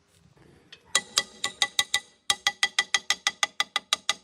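Rapid, evenly spaced metallic clicks, each with a short ringing tone, about five a second, starting about a second in with a brief break near the middle: a metal tool working on steel motorbike engine parts.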